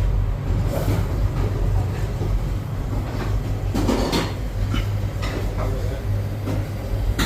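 Commercial refrigeration unit's compressor running with a steady low hum, with a few knocks and clatters, the loudest about four seconds in.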